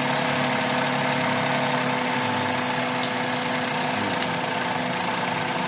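Suzuki Celerio's three-cylinder engine idling with a misfire, the fault being diagnosed, with a faint tick about three seconds in and another about four seconds in.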